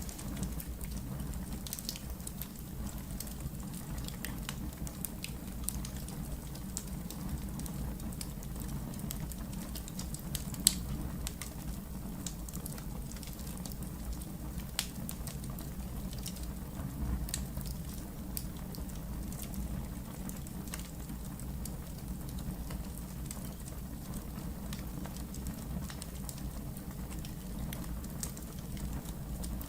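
Wood fire burning with a steady low rumble and scattered crackles and pops. About ten seconds in comes one sharp pop, louder than the rest.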